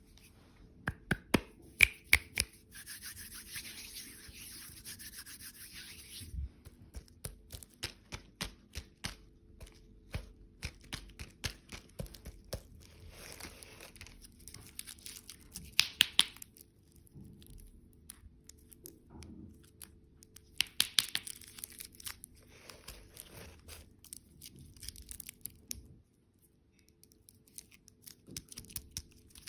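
Candy packaging being handled: plastic wrappers crinkling and tearing in several bursts, between many light clicks and taps.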